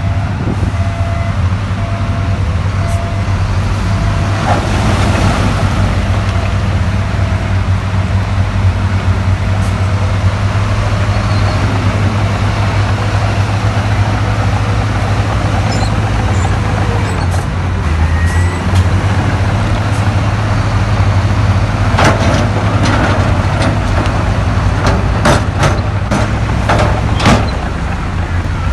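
Heavy diesel earthmoving machinery running steadily, with a cluster of sharp metallic clanks in the last several seconds.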